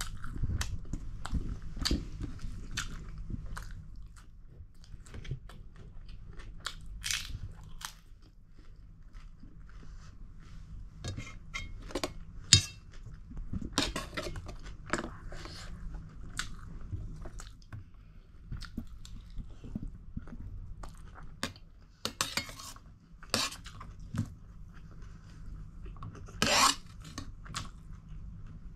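Close-up chewing and crunching of a person eating, with wet mouth sounds, while a steel spoon scrapes and clinks on a stainless steel plate now and then. There is one sharp, loud click about halfway through.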